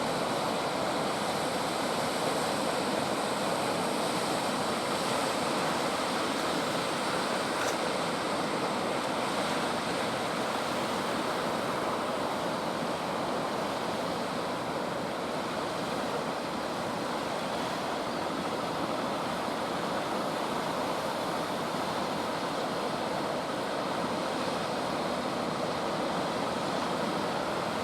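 Ocean surf breaking on the shore: a steady, continuous wash of waves with no lulls.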